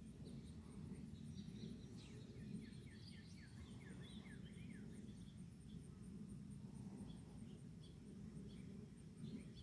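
Faint outdoor bird song, scattered chirps and quick falling notes, clustered about two to three seconds in, over an insect's steady high pulsing and a low background rumble.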